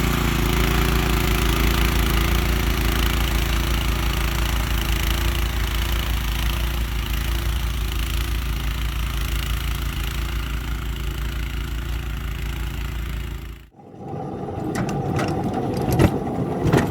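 An engine running steadily. About three seconds before the end it breaks off suddenly, giving way to a rumble with a few sharp knocks.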